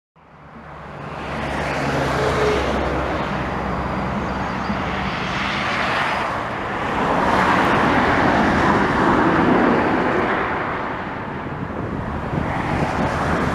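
Jet engine noise from a Boeing 777's GE90-115B engines mixed with road traffic from the adjacent expressway. It fades in over the first couple of seconds, then swells and eases as a steady rushing roar.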